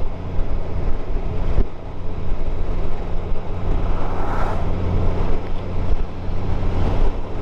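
Motorcycle engine running steadily at cruising speed, heard from the rider's helmet-mounted camera with wind noise over it.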